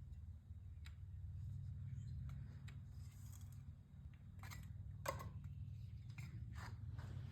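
A metal scraper scratching at the old oil pan gasket on a Chevy 350 engine block's pan rail, in short, irregular strokes over a steady low hum. The old gasket is stuck fast to the block and barely comes off.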